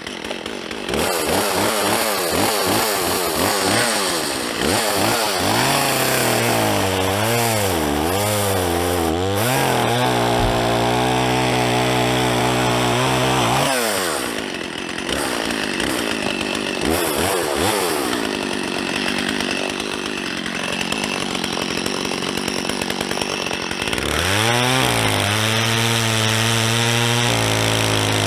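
Two-stroke chainsaw cutting up a fallen log for firewood: the engine revs up and down, then holds a steady pitch under load while it cuts, twice.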